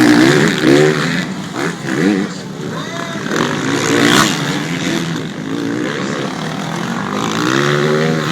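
Motocross motorcycle engines revving during a race, rising in pitch and dropping back again and again as the riders accelerate and shift.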